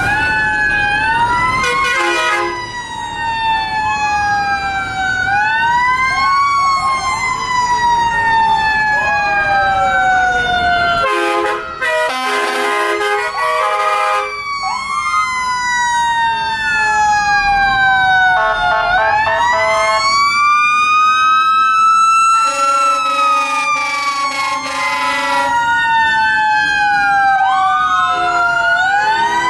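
Several fire truck sirens sound at once, overlapping, including mechanical Federal Q sirens winding up and coasting down in long falling wails. Sustained air horn blasts come in several times, the longest near the middle and after two thirds of the way through.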